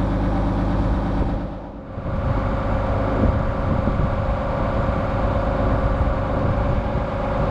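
A Dutch barge's inboard engine running steadily while under way, a low hum with a steady beat. The sound briefly drops away about one and a half seconds in, then comes back.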